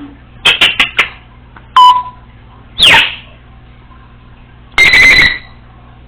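Congo African grey parrot giving a string of calls: a quick run of four short chirps, a brief whistle, then a falling whistle. About five seconds in comes a buzzy, beep-like call, like the electronic sounds she mimics.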